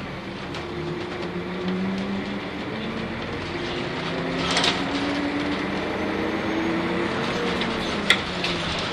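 Nissan Diesel UA city bus with its PU6 natural-gas engine under way, heard from inside the cabin: the engine note rises steadily over tyre and road noise as the bus gathers speed. A sharp rattle sounds about eight seconds in.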